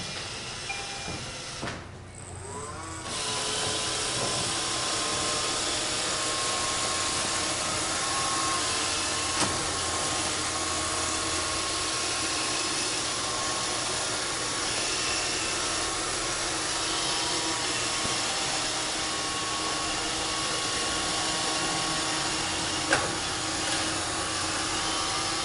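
Roomba 531 robot vacuum starting up about three seconds in, its motor rising in pitch, then running steadily with a hum and whir. A sharp knock a few seconds before the end.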